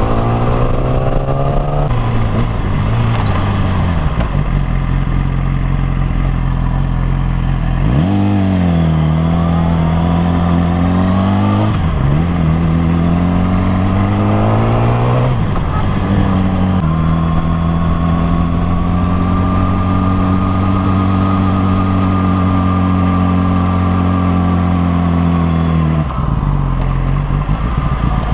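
Yamaha R6's 600 cc inline-four engine under way. It pulls up in pitch, drops sharply a few times as the throttle is rolled off or gears change, holds a steady cruise for several seconds, then falls away near the end.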